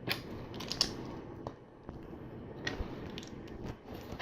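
Small plastic LEGO bricks and slope pieces clicking and clattering as they are handled and pressed together, a scatter of light clicks.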